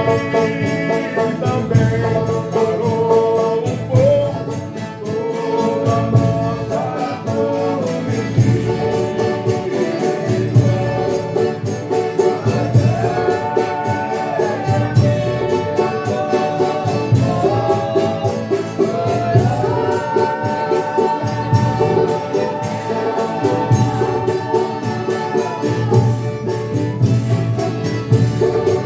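Folia de Reis company singing a thanksgiving verse (agradecimento) as a group, with drawn-out melodic lines over a steady slow beat and accompanying instruments.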